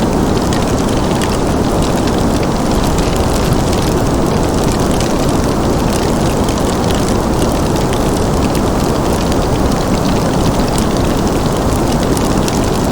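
Wood fire crackling in a fireplace, with scattered small pops and snaps over a steady low rumble of background noise.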